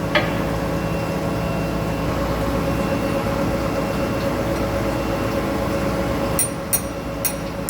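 Steady hum of a running gear-cutting machine. There is a click just after the start and a few sharp metallic clicks near the end, as parts of the machine are set and locked.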